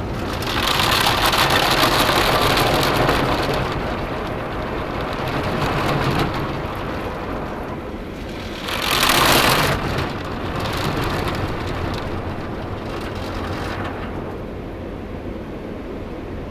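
Tunnel car wash water jets spraying against the car body, heard from inside the car, over the steady rumble of the wash machinery. One long heavy spray comes in the first few seconds and a shorter loud blast about nine seconds in, then a lighter hiss that dies down near the end.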